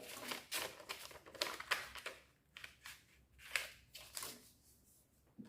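Sheet of colour paper rustling and crinkling as it is folded and creased by hand, in short irregular bursts that thin out after about two seconds.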